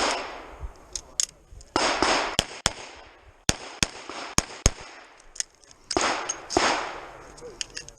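Revolver shots fired in quick strings: sharp cracks, several a second around the middle, with a few louder ones trailing off in a short echo.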